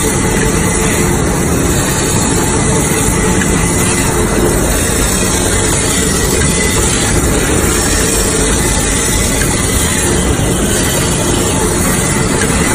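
Band-saw toilet paper roll slitting machine running, a loud, steady mechanical noise with a faint high whine.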